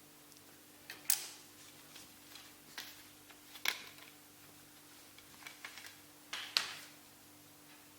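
A handful of sharp, irregular clicks and knocks, the loudest three a little after one second, near four seconds and near the end, over a faint steady hum.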